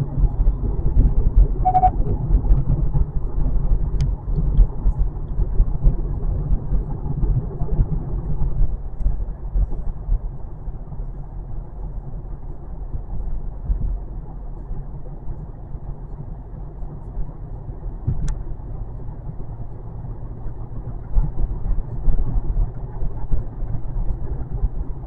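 Inside the cabin of a 2025 Kia K4 driving on the road: a steady low rumble of tyre and engine noise, a little louder in the first several seconds, with a couple of faint clicks.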